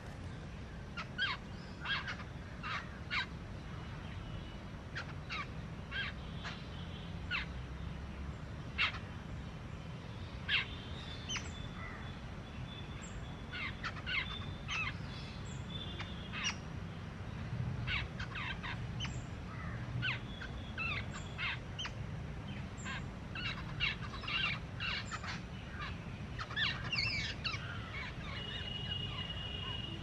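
Birds calling: many short, sharp calls repeated at irregular intervals throughout, over a steady low background rumble.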